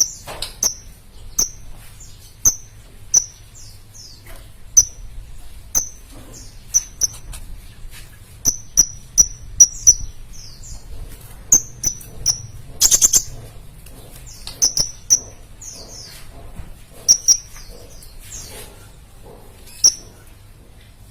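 Sunbird (burung kolibri) calling in full song: short, sharp, high-pitched chirps repeated irregularly, with a brief rapid rattle of notes about halfway through.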